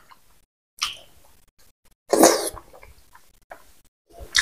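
Close-miked mouth sounds of eating rice and pork by hand: wet chewing and lip smacks in three short bursts, the loudest about two seconds in.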